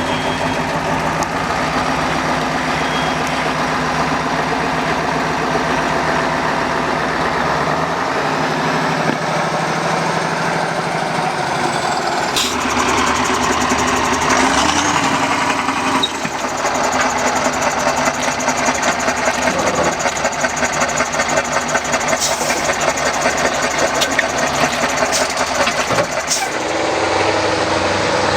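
Steyr trial truck's engine running loud and steady, its pitch shifting a few times as it is worked through the course, with a few sharp knocks along the way.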